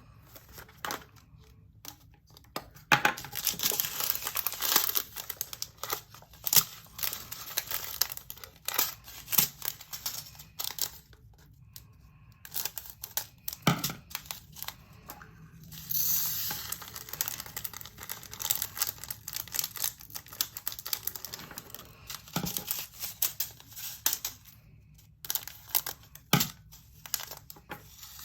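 Small plastic baggies of diamond-painting drills crinkling and rustling as they are handled and torn open, with scattered sharp clicks and taps.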